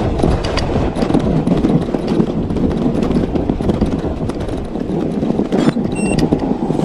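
Mountain bike rattling and clattering over a rough trail, many quick knocks from the frame and drivetrain over a steady rumble of tyres and wind buffeting on the action camera's microphone.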